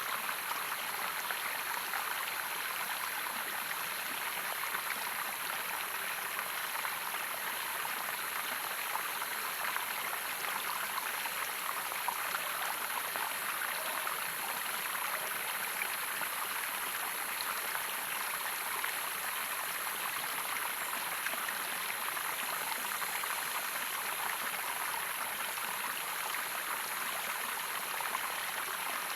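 Running water in a natural stream: a steady, unbroken rush of splashing water.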